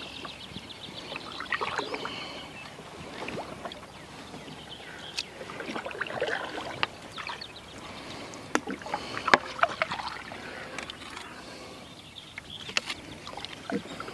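Kayak paddle strokes in shallow water: repeated splashing and dripping, with a few sharp knocks scattered through.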